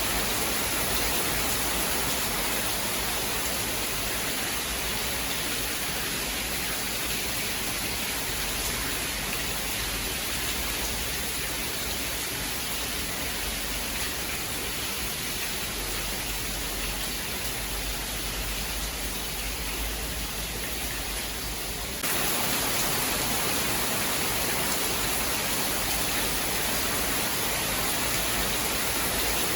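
Steady, dense rain, an even hiss without separate drops standing out. About 22 seconds in the sound changes abruptly and gets a little louder, like a splice in a looped recording.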